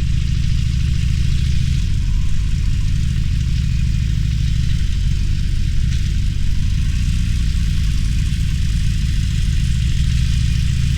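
Harley-Davidson Roadster's air-cooled V-twin engine running steadily at low revs, its note shifting about five seconds in and again near the end.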